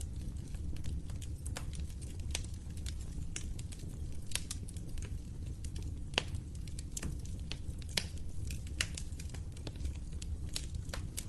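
Wood fire crackling in a fireplace: irregular sharp pops and snaps, several a second, over a steady low rumble of the flames, with a few louder pops about six and eight seconds in.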